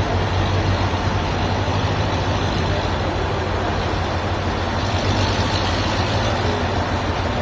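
A heavy engine running steadily with a low hum and a constant mechanical din.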